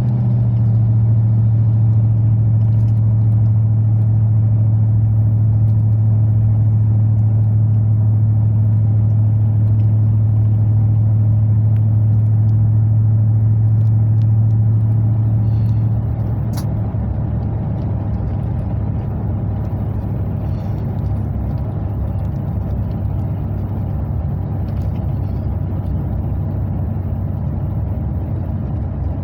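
Exhaust drone heard inside the cab of a 2003 Chevrolet Silverado 2500HD fitted with an aftermarket Flowfx exhaust, windows up, while driving. A steady low drone holds for about sixteen seconds, then eases to a quieter, rougher rumble.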